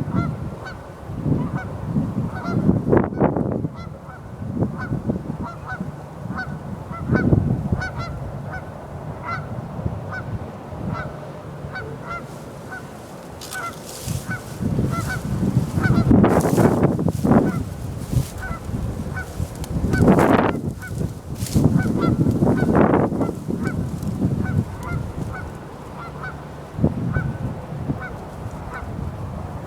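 Loud honking bird calls, coming irregularly in groups, over a faint steady series of small high peeps.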